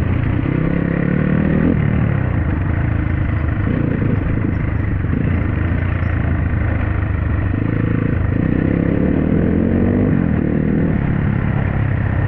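Dirt bike engine running while riding, its pitch rising and falling several times as the throttle opens and closes over a steady low drone.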